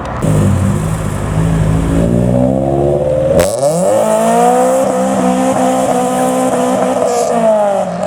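Modified Japanese car engines accelerating hard as they drive off, the engine note climbing with the revs. About three and a half seconds in the sound changes abruptly to another car's higher engine note, which rises, holds, and drops a little near the end.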